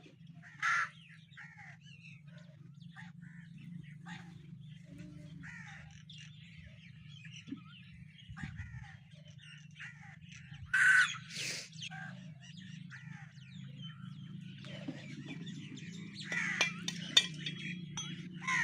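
Birds calling outdoors, with loud harsh calls about a second in and again about eleven seconds in, over a steady low hum.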